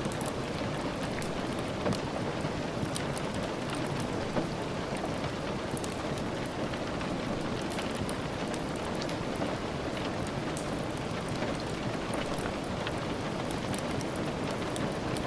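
Steady rain falling, an even wash of noise with scattered sharp ticks through it.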